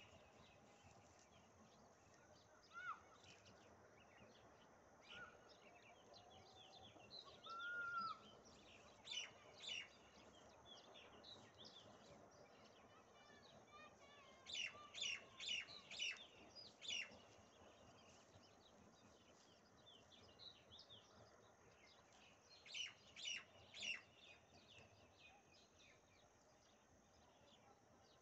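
Faint chirping of small wild birds, in quick clusters of short high chirps that come and go, with a few softer, lower calls between them.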